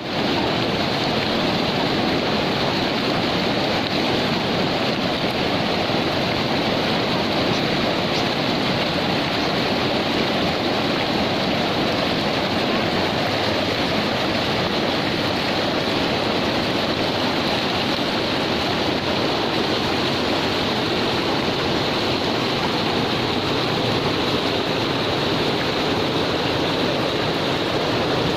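Fast-flowing mountain river rushing over rocks: a loud, steady roar of water that does not let up.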